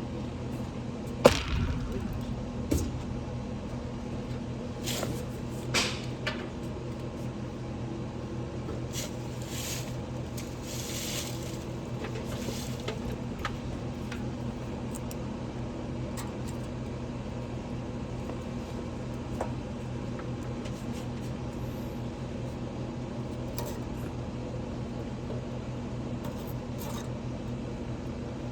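Steady low electrical hum with a sharp click about a second in, a few more clicks and knocks over the next few seconds, and brief hissing noises in the middle.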